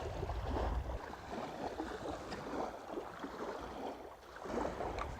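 Strong gusty wind rumbling on the microphone, heaviest in the first second and easing around four seconds in, over small waves lapping.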